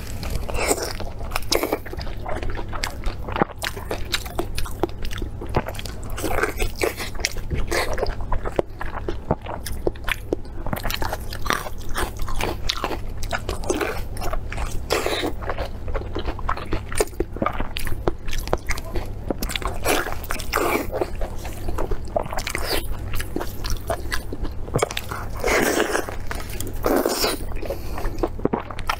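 Close-miked biting and chewing of a Chinese blood sausage (xuechang): a steady run of short clicking and smacking mouth sounds as she bites through the casing and chews.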